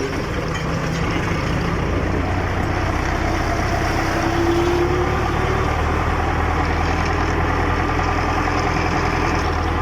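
Tractor engine running steadily with a low, even hum that grows slightly louder after about two seconds.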